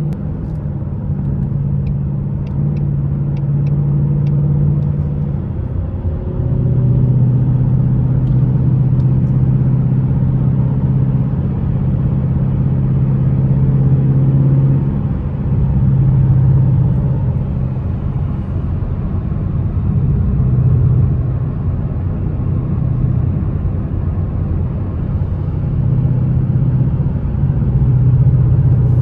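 Ford Mustang GT's 5.0 V8 running at a steady cruise, a low drone whose pitch shifts a couple of times as the car changes speed.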